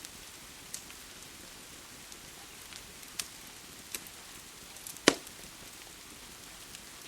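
Steady hiss of rain with wood in a fireplace crackling over it: scattered sharp pops, the loudest a single strong crack about five seconds in.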